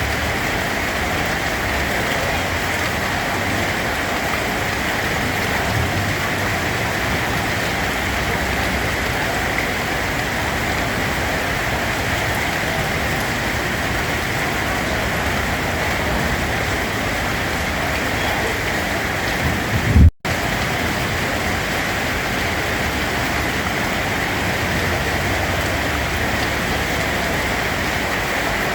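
Steady, heavy rain falling, a dense even hiss. About twenty seconds in there is a brief low thump followed by a split-second cutout where the sound drops away completely, then the rain resumes.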